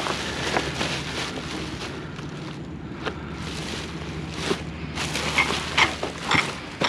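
Rummaging through a pile of discarded household items: rustling with scattered clicks and knocks, more of them in the second half, over a steady low hum.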